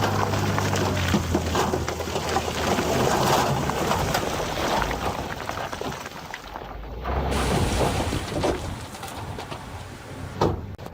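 Loose stones clattering and rattling as they pour and tumble, many small knocks over a continuous rushing noise, with a heavy diesel engine running low underneath.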